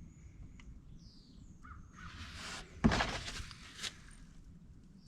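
A short rustling, scraping burst of handling noise about two to three and a half seconds in, with a sharp knock as its loudest point and a smaller click soon after, while small birds chirp in the background.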